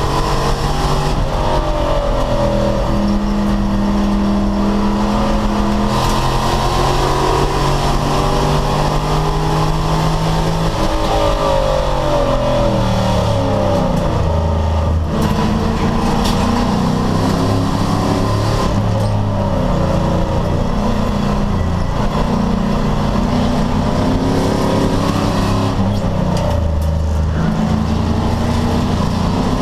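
Race car engine under hard load on track, its pitch climbing through the gears and falling off sharply under braking and downshifts, twice.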